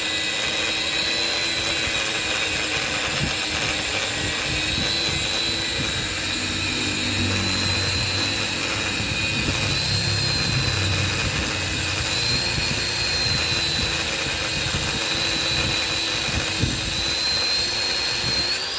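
A homemade touchless motorcycle-wash machine's motor running steadily, with a high whine that wavers slightly in pitch.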